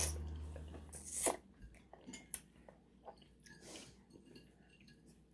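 Faint, scattered clinks and taps of dishes and cutlery at a table, over a low hum that stops about a second and a half in.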